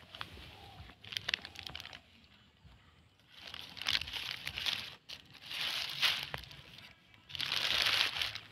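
Plastic rubbish crinkling as it is handled, in four bursts, the longest and loudest near the end.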